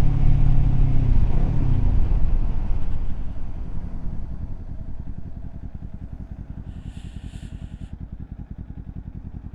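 Kawasaki Z400's parallel-twin engine pulling steadily, then dropping in pitch about a second and a half in as the bike slows. It settles to a much quieter, even low pulse, idling or rolling off the throttle.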